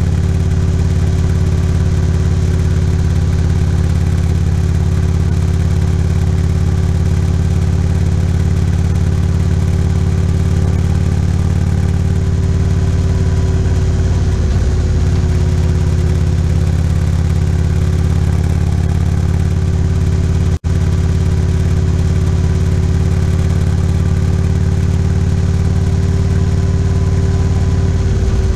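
Motorcycle engine running at a steady cruising speed, heard from a camera on the bike, a low even drone with a brief wobble about halfway through. The sound cuts out for an instant about two-thirds of the way in.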